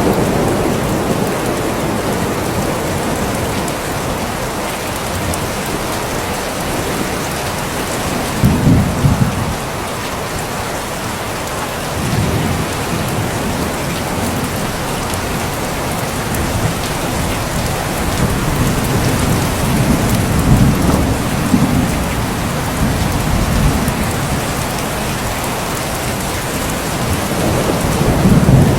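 Steady rain falling, with several low rolls of thunder rumbling through it. The loudest come about a third of the way in, two-thirds of the way in and near the end.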